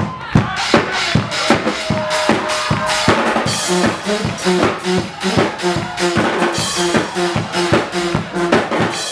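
Guggenmusik carnival band playing: brass with bass drum and drum kit keeping a steady beat. About three seconds in, the brass switches from held notes to short, repeated punchy notes.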